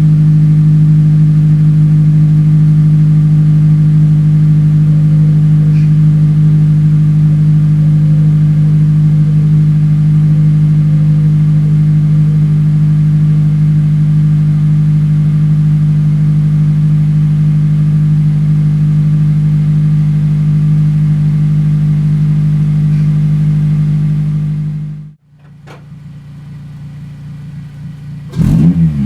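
Honda Civic Type R FN2's 2.0-litre four-cylinder engine through a TDI North 3-inch exhaust, running at one steady engine speed with a loud, even drone. It stops about 25 seconds in, and near the end quick revs rise and fall.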